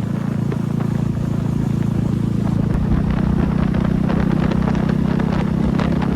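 KTM 390 Duke single-cylinder engine running with no exhaust silencer, a loud open-pipe note held at a steady engine speed.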